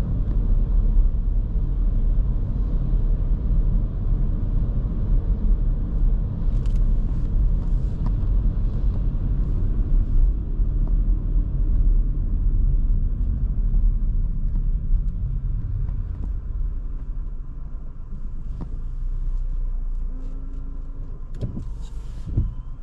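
2023 Škoda Kamiq 1.0 TSI, a three-cylinder turbo petrol, driving with a steady low engine and tyre rumble heard from inside the cabin. The rumble eases off over the last few seconds as the car slows, with a few faint clicks.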